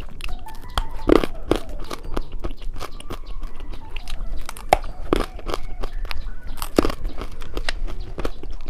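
A person biting and chewing crunchy candy close to the microphone: irregular sharp crunches and crackles throughout.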